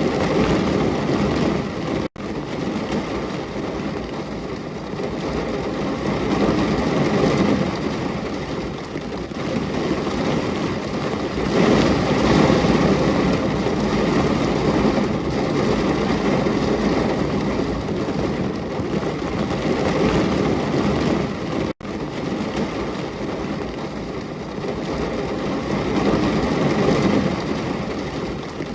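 Rain falling steadily as a dense, even hiss that slowly swells and eases, cutting out for an instant twice.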